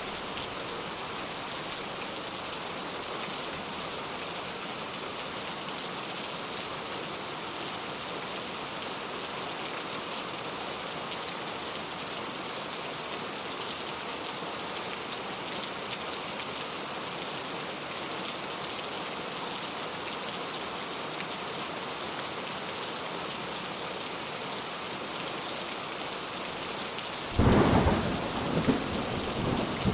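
Heavy rain falling steadily, an even hiss. Near the end a thunderclap breaks in suddenly and rumbles on.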